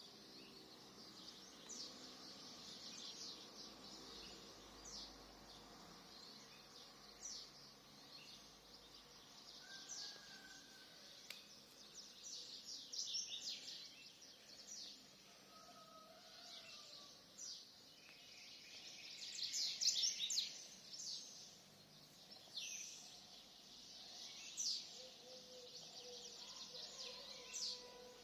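Small birds chirping, many quick high chirps coming in bursts, busiest and loudest about twelve seconds and again about twenty seconds in.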